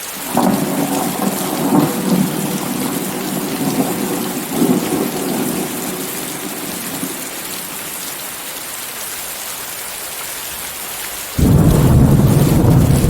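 Steady rain with thunder: a rumble starts right away and fades over several seconds, then a sudden, louder, deeper roll of thunder breaks in near the end.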